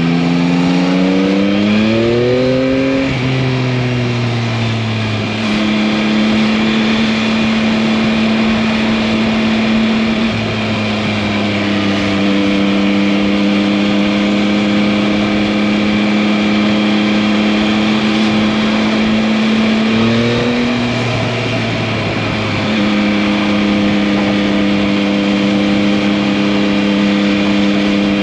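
2021 Yamaha MT-09's 890 cc inline three-cylinder engine under way. Revs climb over the first few seconds, then hold steady at cruising speed, with a brief rise about twenty seconds in before settling again.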